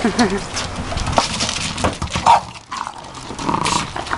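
Large dogs playing: a short whine right at the start and a couple of brief higher yelps later, among scattered scuffling and clicking noises.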